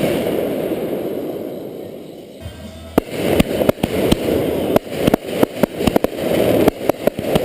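Fireworks going off: a loud burst of noise that fades away over about two seconds, then from about three seconds in a rapid, irregular string of sharp cracks, several a second, over a steady crackling hiss.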